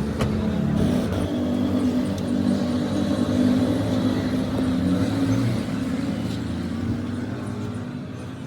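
An engine running steadily with a low, slightly wavering hum, growing a little quieter near the end.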